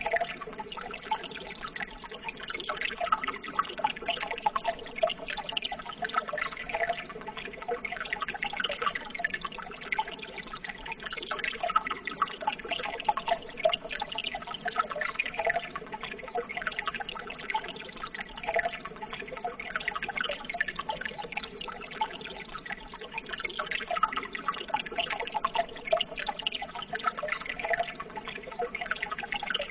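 Running water trickling and splashing steadily, a continuous stream of small gurgles without let-up.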